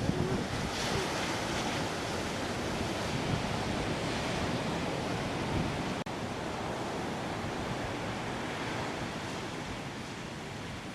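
Heavy surf from a typhoon swell, waves breaking and rushing in a continuous roar, with wind buffeting the microphone.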